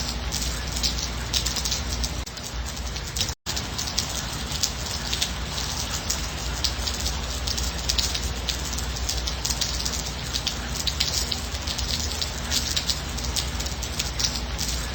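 Steady gentle rain, a dense patter of drops without thunder. The sound cuts out for an instant about three and a half seconds in, then the rain carries on.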